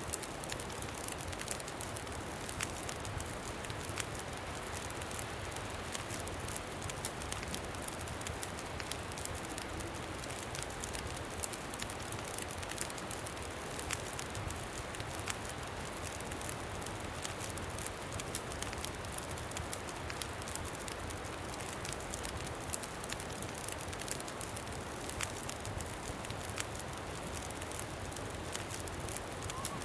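Campfire crackling, with frequent small sharp pops, over a steady rush of wind.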